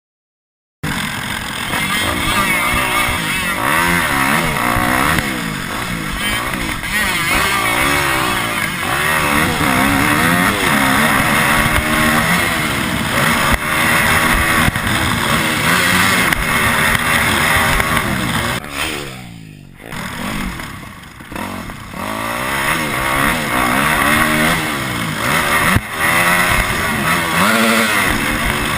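Motocross dirt bikes running hard, their engines revving up and down in repeated rising and falling sweeps. The sound starts about a second in and dips briefly about two-thirds of the way through.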